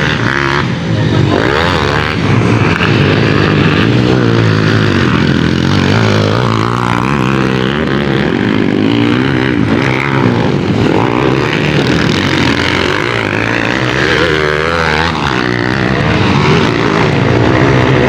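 Several motocross motorcycle engines revving as they race, their pitches rising and falling and overlapping.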